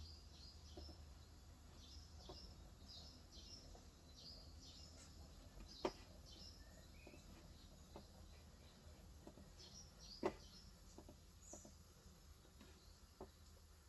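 Faint birdsong: small birds chirping in quick short calls, thick in the first half and thinning later. A few sparse keystrokes on an electrostatic-capacitive (Topre-style) keyboard click through it, the two loudest about six and ten seconds in.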